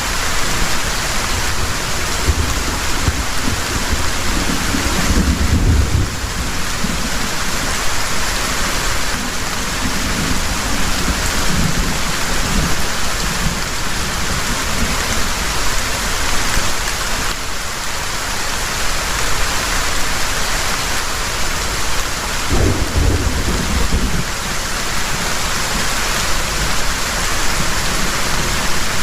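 Heavy rain pouring steadily, with thunder rumbling low in the background, most strongly about five seconds in and again a little after twenty seconds in.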